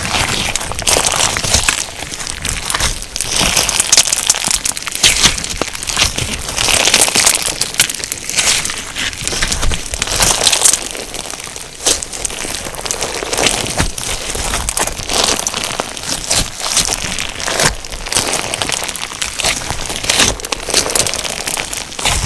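Hands kneading and squeezing a crunchy slime filled with sugar beads, making dense, continuous crackling and crunching with many small pops.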